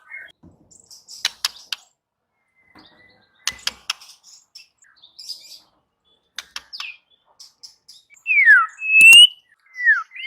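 White-rumped shama (murai batu) calling: scattered sharp ticks, then near the end three loud clear whistles, the first and last sliding down in pitch and the middle one rising.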